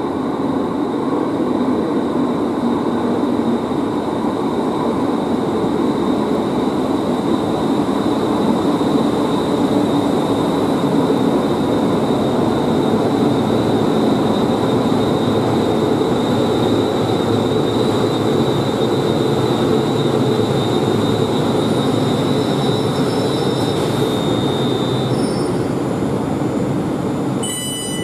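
Class 360 Desiro electric multiple unit pulling into an underground station platform: a steady rumble of wheels and running gear, echoing in the tunnel station. A thin, steady high whine runs over the rumble and fades out about three-quarters of the way through as the train slows.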